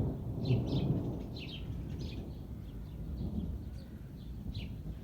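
Small birds chirping in short calls about twice a second, over a steady low rumbling outdoor noise as rain sets in.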